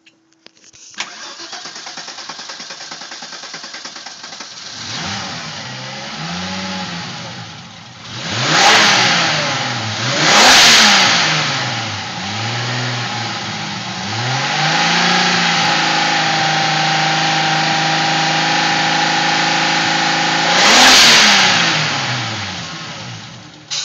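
Turbocharged VR6 engine in a VW Corrado, on a MegaSquirt engine management system, starting for the first time. The starter cranks for about four seconds before the engine catches, then it is revved up and down several times. It settles into a steady idle, gets one more rev near the end, and then winds down.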